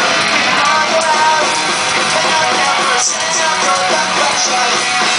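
Pop-punk band playing live: distorted electric guitars, bass and drums, with a singer's voice over them, recorded from the crowd through a small camera microphone.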